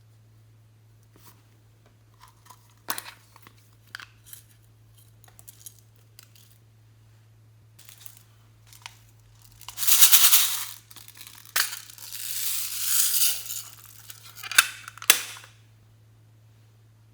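Hands working glossy slime: scattered sticky clicks and crackles, then louder squishing and crackling from about ten seconds in, ending a couple of seconds before the end.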